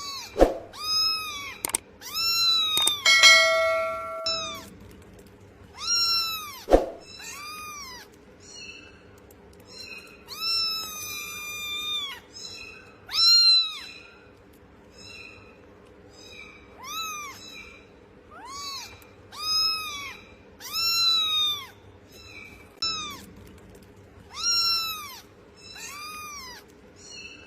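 A cat meowing over and over: about twenty high meows, each rising and falling, one every second or so, with one longer drawn-out meow around eleven seconds in.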